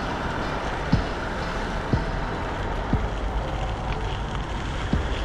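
Steady rushing noise of a bicycle being ridden, with wind on the microphone and a short knock about once a second.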